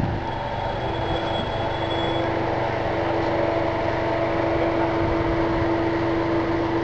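A 4x4's engine idling steadily, a constant hum that grows a little stronger about two seconds in.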